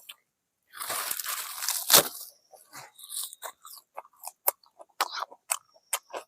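Close-up crunching and chewing of crispy fried chicken. A long crackly bite begins about a second in and ends in a sharp crack, followed by a run of short separate crunches.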